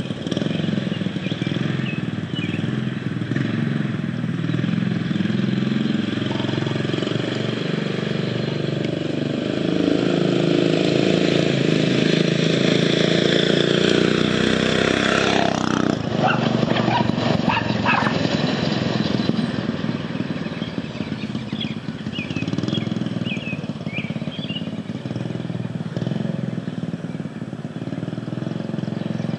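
Predator 6.5 hp single-cylinder engine of a homemade mini bike running through its new custom exhaust. It speeds up from about ten seconds in, then drops back after about fifteen seconds.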